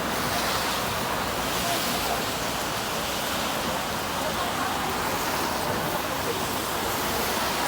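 Steady rushing noise of rain.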